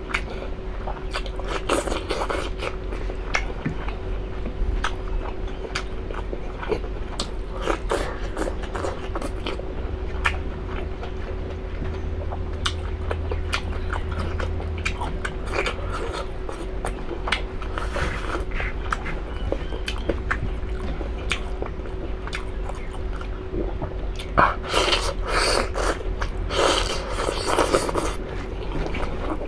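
A person chewing and biting beef innards close to the microphone: irregular wet clicks and smacks, with a louder cluster of chewing sounds near the end, over a steady low hum.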